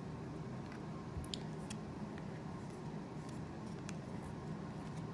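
Trading cards being handled, giving a few faint light clicks and rustles over a steady low room hum.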